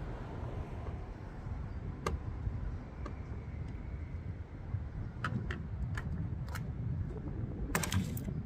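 Sharp clicks and taps of plastic number-plate clips and screws being worked loose by hand and screwdriver, scattered and coming more often towards the end, with a cluster of clicks near the end, over a steady low outdoor rumble.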